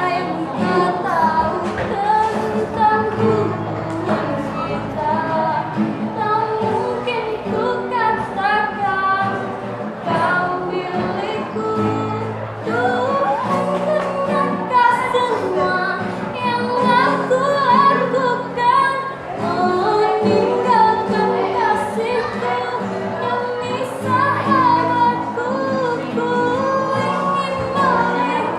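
High-school students singing, with female voices carrying a melody in sung phrases over held low notes.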